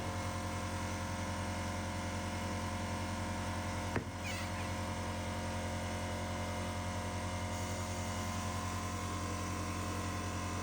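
2018 Harley-Davidson Sport Glide V-twin engine idling steadily, with one sharp click about four seconds in.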